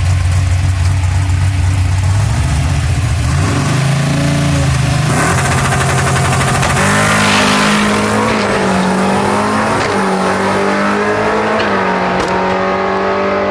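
A drag-racing launch between a 1964 Ford Falcon with a naturally aspirated small-block Ford V8 and a Mustang. The engines idle low at the line and rev up. About five seconds in, a loud rush marks the launch. The cars then pull hard through the gears, the pitch climbing and dropping back at each of three shifts.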